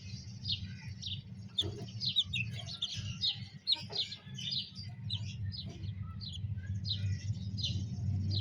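Many small birds chirping together, short high chirps coming several a second and overlapping, over a low steady hum.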